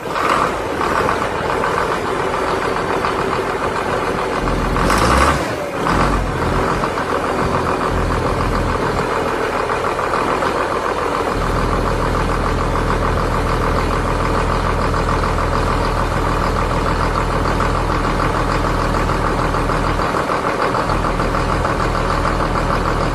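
Tractor engine running steadily at idle, with a brief louder burst about five seconds in. A deeper steady drone sets in about halfway through.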